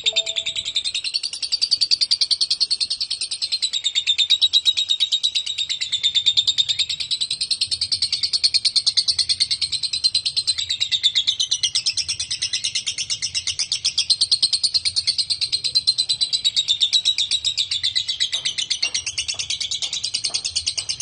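Lovebird singing one long, unbroken, rapid chattering trill (the 'ngekek' song that Indonesian breeders call 'crot'), high-pitched and fast-pulsed, carrying on without a pause.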